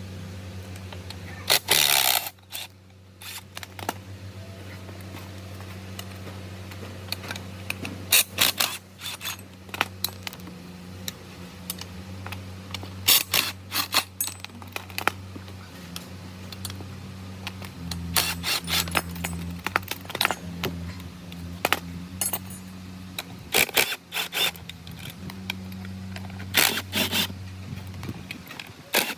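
Metal parts clinking and scraping in irregular short clacks, over a steady low hum.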